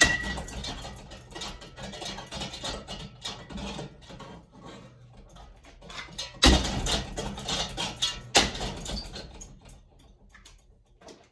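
A ceiling fan being smashed apart: a busy clatter of knocks and rattling parts, with a sharp hit at the start and two loud crashing impacts about six and a half and eight and a half seconds in, over a low steady hum.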